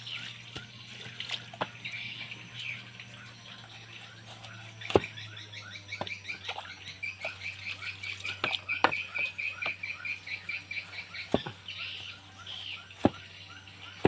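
Small animals chirping in quick repeated calls over a steady low hum, with a few sharp knocks.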